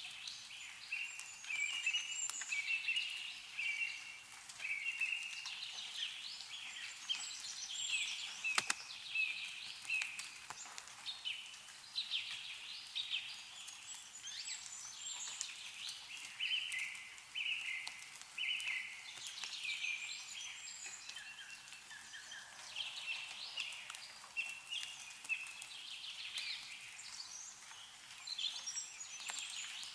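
Small songbirds chirping and twittering almost without pause, several calls overlapping, with a few sharp ticks from meltwater dripping off snowy trees.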